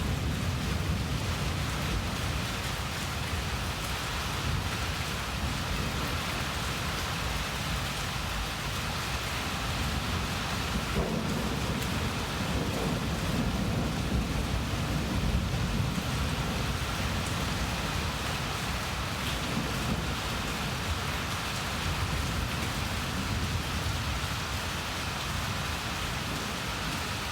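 Steady heavy rain falling in a thunderstorm, with low rolling thunder rumbling underneath that swells near the start and again around the middle.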